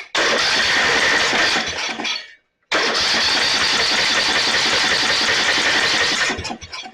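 A Snapper riding mower's engine being cranked by its starter with the choke on, in two tries: the first lasts about two seconds and the second about three and a half seconds before it stops.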